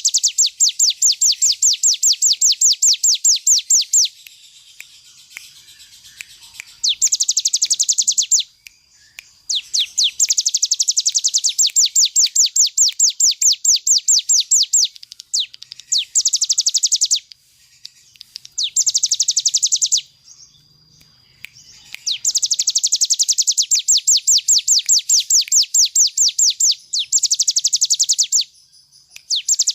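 Ciblek gunung (cigun) songbird singing its rapid rattling "ngebren" song: bouts of fast, evenly repeated high notes, about seven a second, each burst lasting a second and a half to five seconds with short pauses between.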